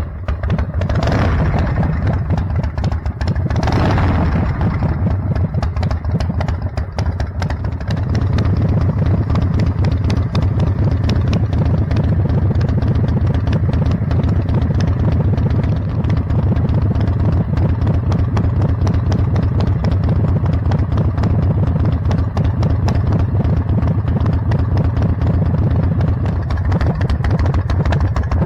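Custom chopper motorcycle engine running through its exhaust pipes. It is briefly revved twice in the first few seconds, then idles steadily with a fast, even pulse.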